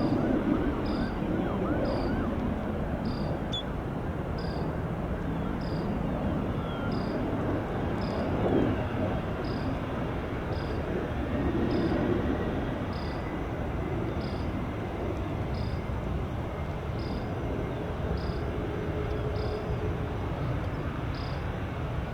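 Steady jet engine noise from airliners, swelling a little twice, with a faint high tick repeating about once a second.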